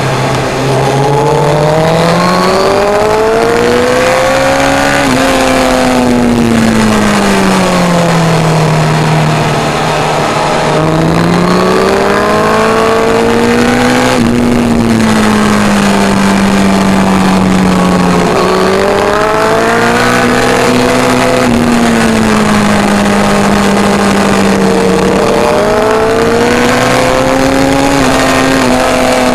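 Suzuki GSX-R1000 K1's inline-four engine at full race pace, heard from on board. Its pitch climbs under acceleration and falls off again through the corners several times, with a few sudden breaks in pitch at gear changes.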